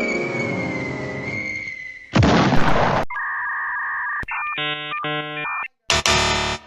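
A string of cartoon sound effects: a descending glide fading out, a loud explosion-like burst about two seconds in, a run of stepped electronic beeping tones, and a second short burst near the end.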